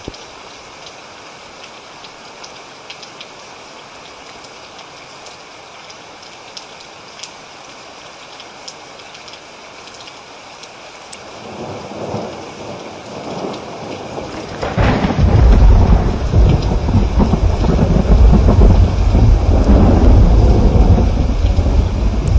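Steady rain falling, with scattered drops pattering close by. About halfway through a low rumble of thunder builds, then breaks into a long, loud roll of thunder that keeps rumbling over the rain.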